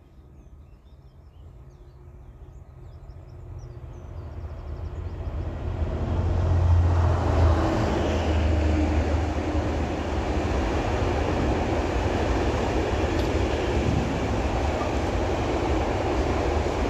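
A train approaching and passing at speed: the sound builds steadily over the first six seconds or so, then holds as a loud, steady noise of wheels on rail while the length of the train goes by.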